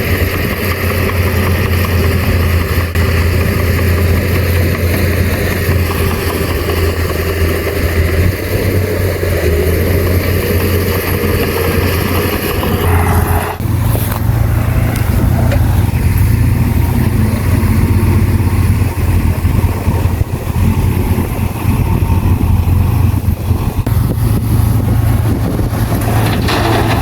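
Heavy earthmoving machine's diesel engine running steadily under load with a deep hum. Its sound changes abruptly about halfway through.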